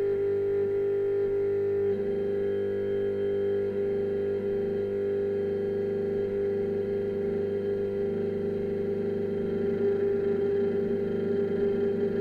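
A steady, dark electronic drone of several held tones. About two seconds in, a wavering lower layer joins it.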